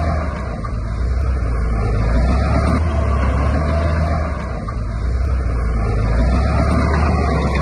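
Heavy diesel construction machinery engine running steadily, its level dipping briefly twice.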